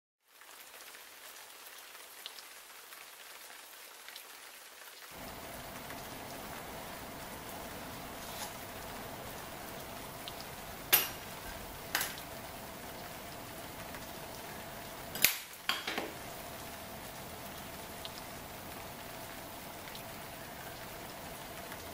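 Steady rain, thickening after about five seconds. Four or five sharp clicks break through in the middle, louder than the rain.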